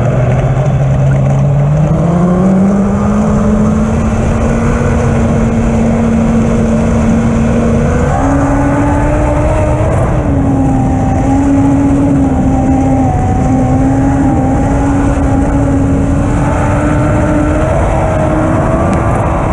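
Lightning sprint race car engine running hard, its pitch climbing over the first few seconds, then holding high with small rises and dips, stepping up again about eight seconds in.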